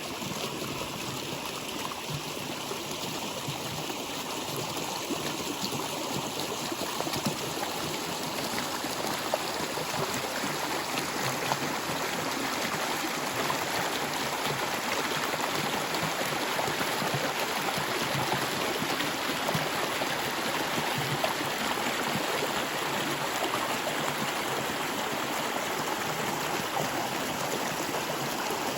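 A stream of water flowing and gurgling over rocks, a steady rushing that grows slightly louder over the first several seconds.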